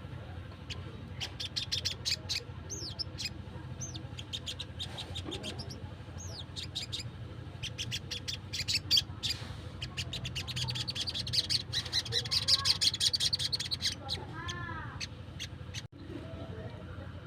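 Wild sogon, a small sunbird, calling in rapid runs of sharp high chips, with a fast continuous trill near the middle. It ends with a few looping falling notes, over a steady low hum.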